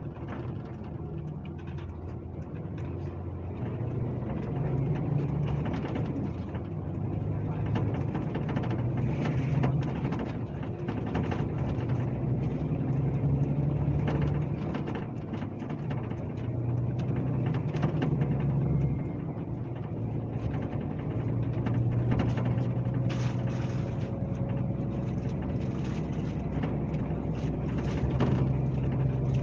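Scania K370C coach's rear-mounted diesel engine running under way, heard from on board, its note rising and falling several times as throttle and gears change, over road noise.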